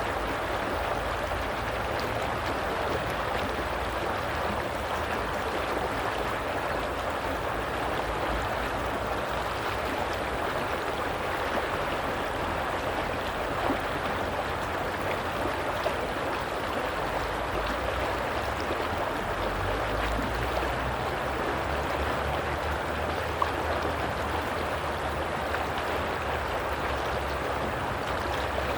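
Flowing stream water, a steady rushing and gurgling with small splashes now and then.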